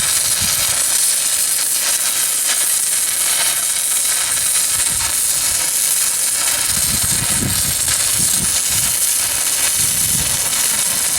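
Shielded metal arc (stick) welding with a 1/8-inch 6010 rod at 85 amps from a Miller Syncrowave 210: the arc burns continuously with a steady, loud crackling hiss.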